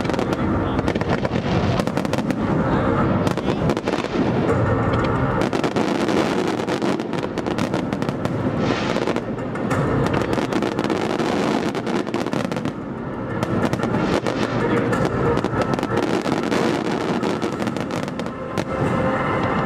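Aerial fireworks display: a dense, continuous barrage of overlapping shell bursts, bangs and crackling.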